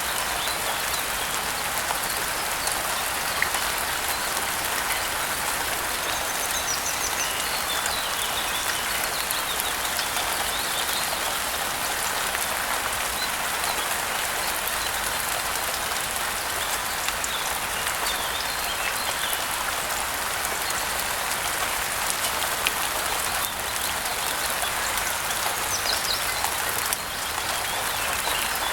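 Steady rain falling, a continuous even patter, with a few faint bird chirps now and then.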